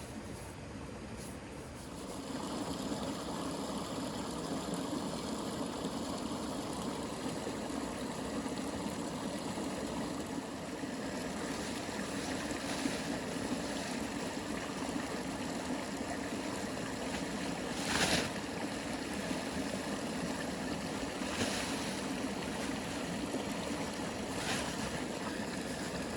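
Steady rushing water noise, rain or a nearby stream, growing louder about two seconds in. A few brief sharp sounds cut through it, the loudest about eighteen seconds in.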